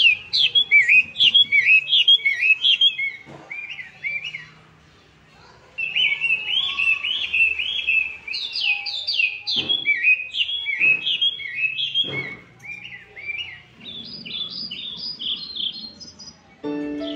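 Birds chirping: quick, repeated chirps, several a second, that stop for a couple of seconds about four seconds in and then resume. Music comes in just before the end.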